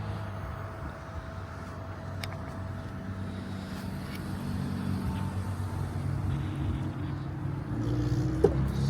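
Steady low tyre and road rumble inside a moving Hyundai Kona Electric, with a brief sharp sound near the end.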